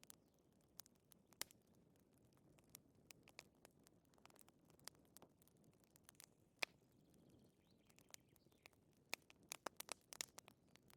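Wood fire crackling in a fireplace: irregular sharp pops and snaps over a faint low hiss, with a quick cluster of pops near the end.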